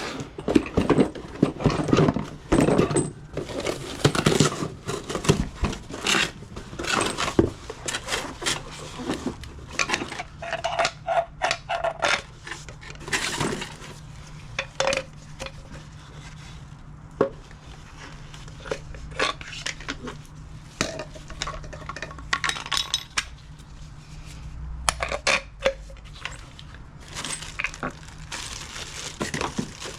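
Metal tools and parts clinking and clanking as they are handled during strut work, in irregular knocks that are busiest in the first half. A steady low hum sets in about eight seconds in.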